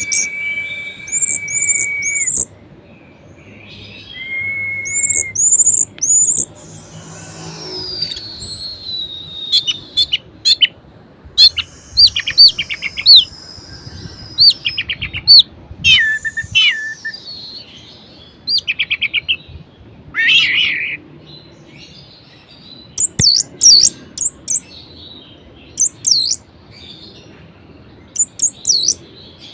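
Orange-headed thrush (anis merah) singing a varied song. It opens with a long steady whistle, then gives short high slurred notes, a long falling whistle, rapid runs of quickly repeated notes, and bursts of high chattering notes near the end.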